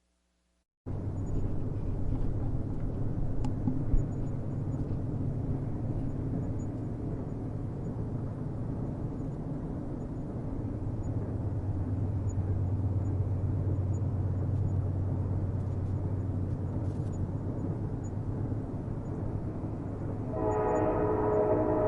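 Train running on the rails with a steady low rumble, which cuts in after a second of silence; a single sharp click comes about four seconds in. Near the end a train horn sounds, several tones at once, held.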